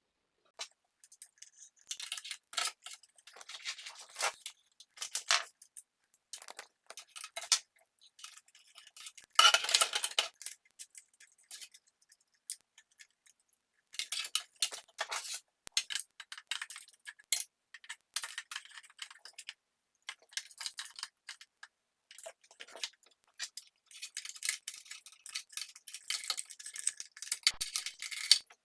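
Small parts clicking, scraping and rattling as they are handled, in short irregular clusters with pauses between them and a louder one about ten seconds in.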